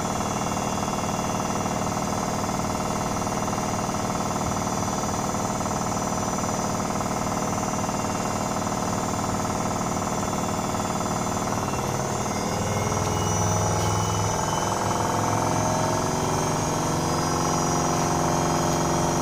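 Privileg Sensation 9245 washing machine running: a steady mechanical hum and rattle from the motor and drum. About twelve seconds in, the pitch shifts and the sound grows a little louder as the drum changes speed.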